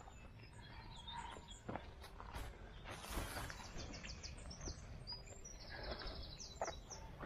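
Wild birds singing, with two rapid high trills, one about three seconds in and another near the end, over faint footsteps through long grass.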